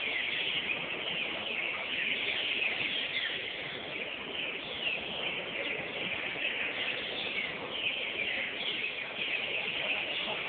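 Green-winged saltators (trinca-ferro) singing: many short whistled phrases overlapping without a break, from several birds at once.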